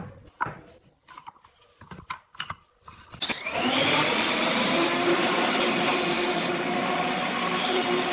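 A few sharp knocks, then about three seconds in an electric power tool starts up with a short rising whine and runs steadily.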